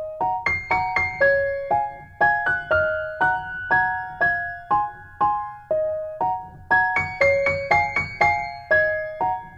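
Background music: a gentle melody of short, quickly decaying keyboard notes, about two a second, over a soft low beat.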